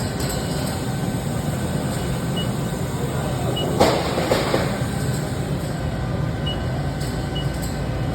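Haas ST-20Y CNC lathe running with a steady mechanical hum, while an axis is jogged from the control. A short louder burst of noise comes about four seconds in, and a few faint short high beeps come at intervals.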